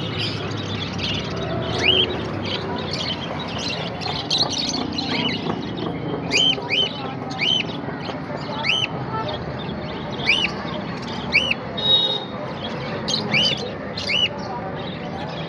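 Many small caged parrots chattering, with short, arched chirps repeating every second or so over a steady background of twittering.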